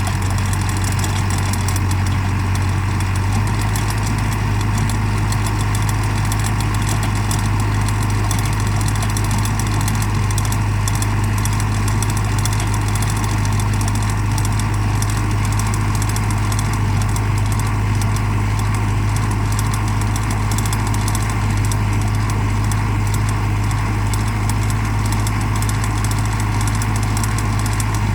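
Mahindra tractor's diesel engine running steadily, its low hum shifting slightly about three seconds in.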